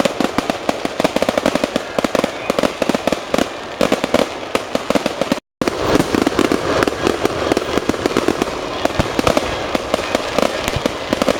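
Fireworks display: a dense, rapid run of bangs and crackles, with the sound cutting out completely for a moment about halfway through.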